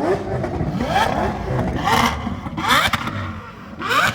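Car engines revving in repeated sharp blips, the pitch rising quickly again and again, with the loudest revs about two and three-quarter seconds and four seconds in.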